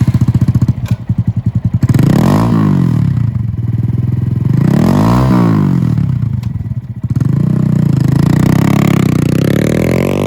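Honda Grom 125's single-cylinder engine running through its exhaust: a lumpy idle at first, then two quick throttle blips about two and a half and five seconds in, and a slower, longer climb in revs toward the end.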